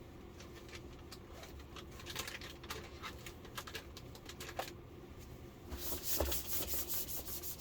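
Cloth wiping over the plastic parts of an LCD TV's backlight assembly: a run of quick rubbing strokes, densest about six seconds in.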